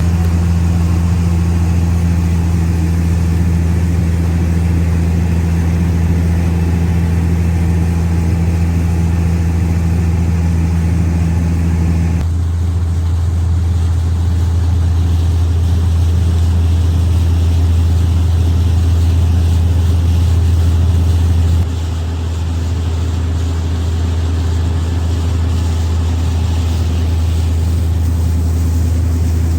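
Speedboat engine running at a steady pitch, heard from on board with a deep low drone. About twelve seconds in its higher tones drop away abruptly. Near the end of the second third the level steps down slightly.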